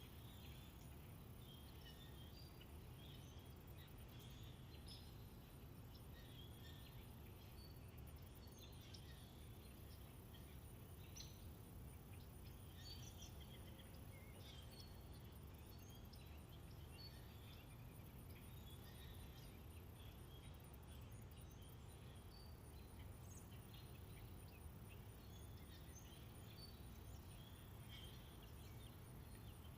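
Faint, scattered short bird chirps and calls, many small notes throughout, over a steady low background rumble.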